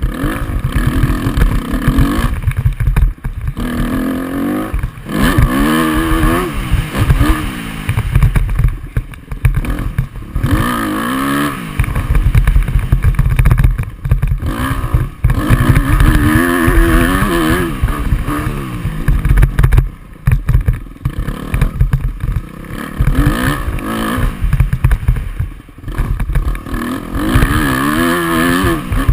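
Motocross dirt bike engine revving hard, its pitch climbing and dropping over and over, with low wind rumble on the microphone.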